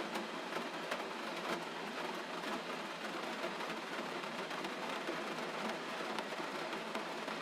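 Steady gentle rain: an even hiss with many small drops pattering through it.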